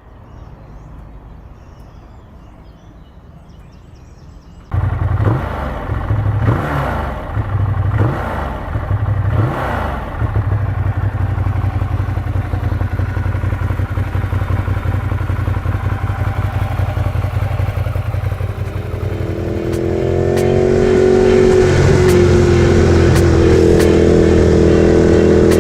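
Motorcycle engine running. It is low and quiet at first, then suddenly much louder about five seconds in and revved several times. It settles to a steady run, and near the end the pitch climbs as the bike accelerates.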